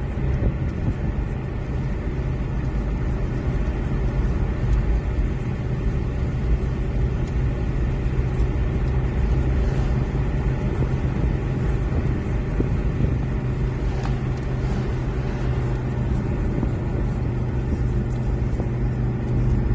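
Steady engine and road noise inside a car's cabin while it drives at speed.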